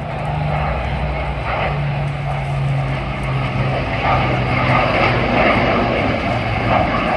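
Avro Lancaster's four Rolls-Royce Merlin piston engines droning in a display pass, a steady, slightly beating drone that grows a little louder about halfway through.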